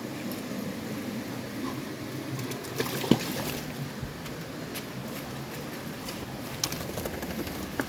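Water splashing and sloshing, with a few sharp clicks, the loudest about three seconds in.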